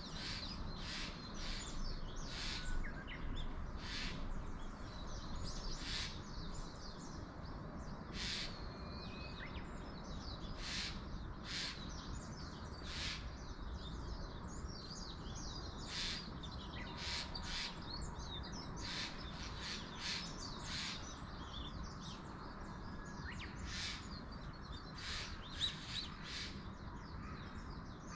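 Wild birds calling: many short, sharp high notes at irregular intervals, over a steady low rush of wind.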